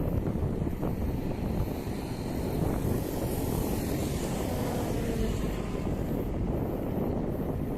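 Wind buffeting the phone's microphone while cycling: a steady rumble with hiss that swells a little around the middle.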